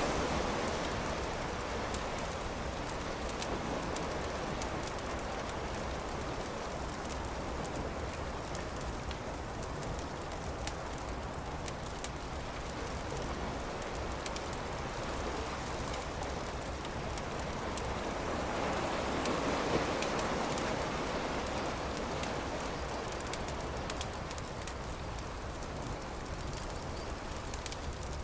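Campfire crackling with frequent small pops over a steady wash of surf. The surf swells at the start and again about two-thirds of the way through.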